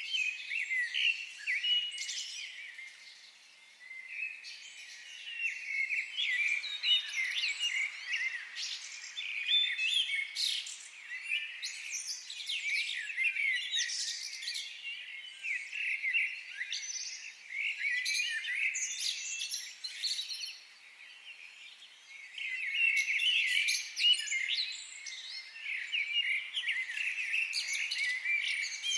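Several birds singing and chirping at once in a dense, overlapping chorus of high chirps and trills. There are brief lulls about four seconds in and again around twenty seconds.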